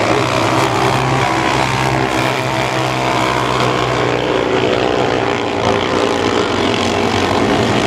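Several mini sprint race cars running hard on a dirt oval, their small engines sounding together at different pitches that rise and fall as they rev.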